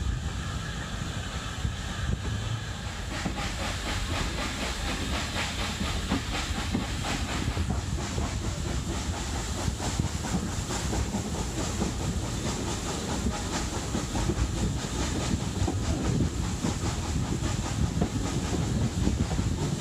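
Hunslet Austerity 0-6-0 saddle tank steam locomotive on the move: a steady rush of steam hiss over quick, repeated exhaust beats, with the clatter of wheels over the rails.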